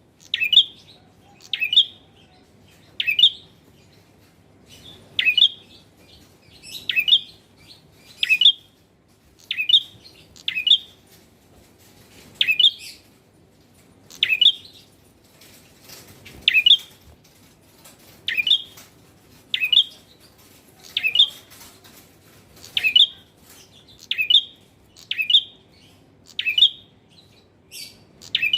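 A male prenjak (prinia) calling: short, sharp chirps repeated every second or two.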